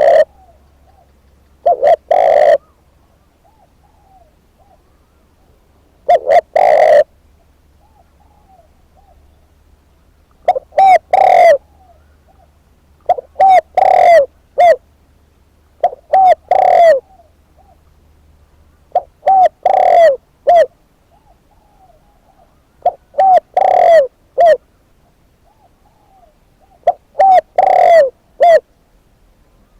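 Decoy spotted dove cooing loudly: short phrases of two to four low hooting notes, repeated every few seconds, with faint softer notes in between.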